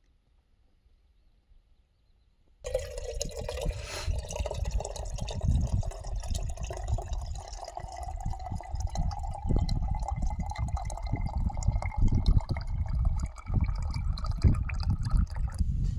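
Water poured steadily into a container, starting suddenly about two and a half seconds in, its pitch rising slowly as the vessel fills, then stopping just before the end. Low rumbling gusts of wind on the microphone run underneath and carry on after the pouring stops.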